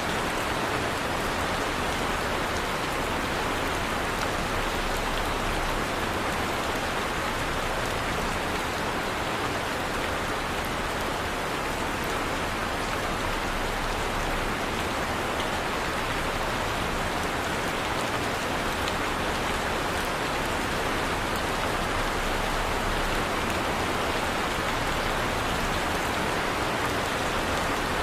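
Heavy rain falling steadily, a dense even hiss of drops pattering on a surface.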